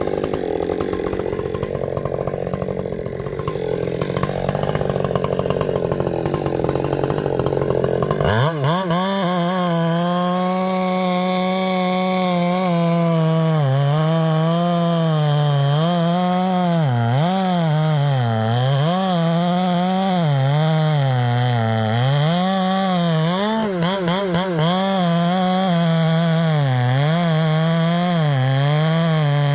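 Husqvarna 564 XP chainsaw with a 32-inch bar, running in a cut with the engine pulled down. About eight seconds in it comes free and runs at high revs, its pitch repeatedly dipping and climbing back up.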